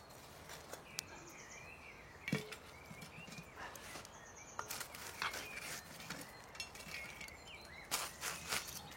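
Scattered scrapes and clinks as embers are heaped onto the lid of a Dutch oven sitting in campfire coals, with a quick run of knocks near the end. Birds sing in the background.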